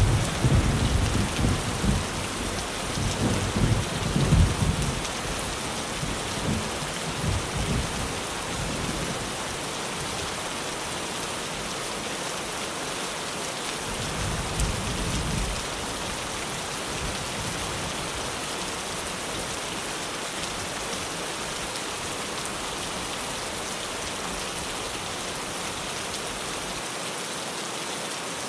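Steady rain falling on a tin roof, with low rolling thunder rumbling through the first several seconds and again briefly about halfway through.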